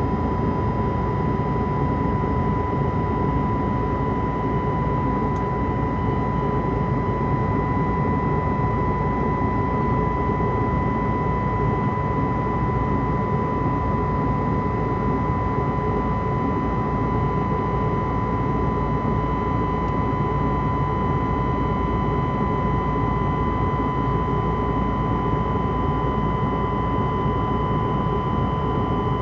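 Airbus A320 cabin noise in flight: a steady rush of engines and airflow, with a constant whine running through it.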